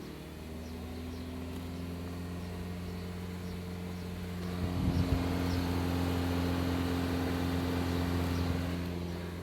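A 1.6 Ford Focus engine running steadily, used as the donor car to jump-start a flat battery, growing a little louder about halfway in.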